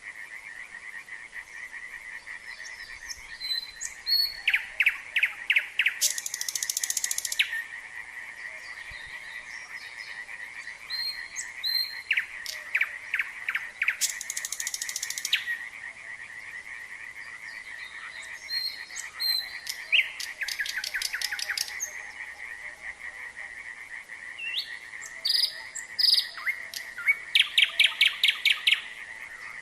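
A frog chorus trilling steadily, with a nightingale singing over it in four phrases of rapid repeated notes and buzzy rattles.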